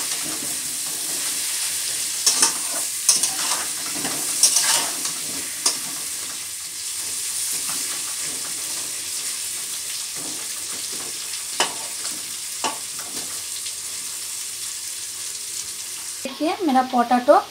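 Halved potatoes shallow-frying in ghee in a steel kadhai give a steady sizzle as they brown. A metal skimmer scrapes and taps against the pan as they are turned, with several clicks in the first five seconds and a couple more later.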